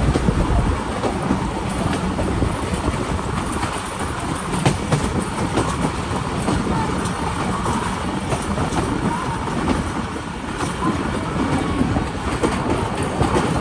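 Passenger train running along the track: a steady rumble of coach wheels on the rails, with a few sharp clicks as the wheels cross rail joints.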